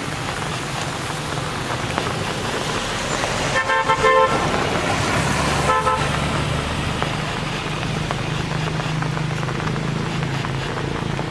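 A vehicle horn honks twice: a longer honk about three and a half seconds in and a short one about two seconds later. It sounds over steady rain and a running engine.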